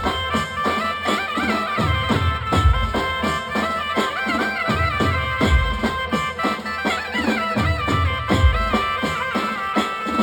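Instrumental Gujarati garba folk music played live through a sound system. A reedy, wind-like lead melody glides over a fast, even drum beat of about four strokes a second, with a deep bass thump every few seconds.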